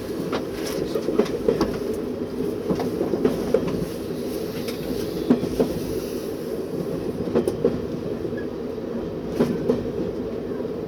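A locomotive cab under way: the diesel engine's steady drone, with the wheels clicking over rail joints at irregular intervals.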